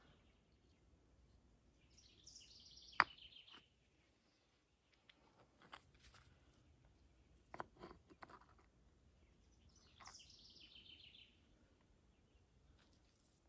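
A songbird sings a quick run of high notes falling in pitch, twice, about eight seconds apart. Between the songs come a few sharp knocks, the loudest about three seconds in, from creek rocks being set against each other as they are lined up in the fire pit.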